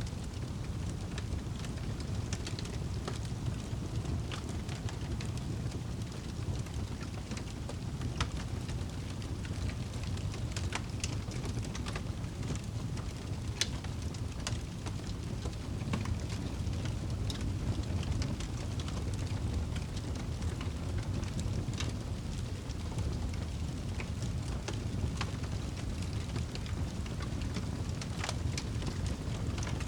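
Fire burning in a fireplace: a steady low rumble of flames with scattered sharp crackles and pops at irregular intervals.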